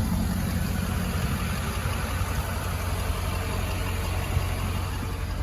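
Ford 6.7L Power Stroke V8 turbo-diesel idling steadily, with a single light click about four seconds in.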